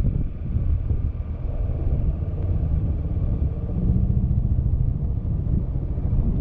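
Steady low wind rumble buffeting the microphone while riding a Yamaha XMAX scooter, with the scooter's engine running underneath.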